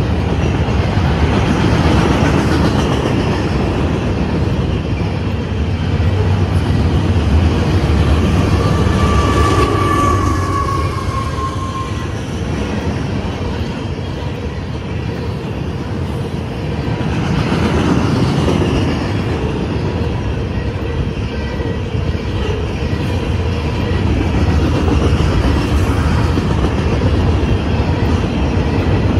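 CSX freight train of gondolas and steel-slab flatcars rolling past at close range, a steady noise of steel wheels running on the rail. About ten seconds in there is a brief high wheel squeal.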